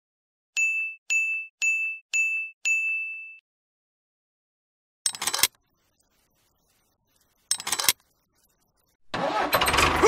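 Five electronic beeps about half a second apart, the last one held longer. Then two short metal chain rattles as a light chain is hooked onto a toy tractor. About a second before the end, an engine sound starts up and keeps running.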